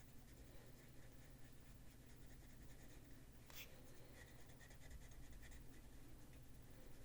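Faint scratching of a Prismacolor colored pencil shading across paper, with one sharp click a little past the middle.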